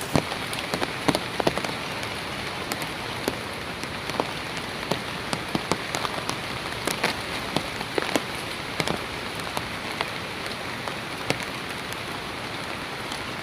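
Heavy rain falling steadily, with many sharp taps of single drops striking through it.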